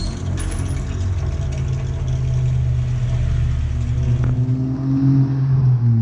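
Yamaha R25 parallel-twin engine running through a Prospeed full-system exhaust, a steady low note that rises in pitch over a second or so near the end.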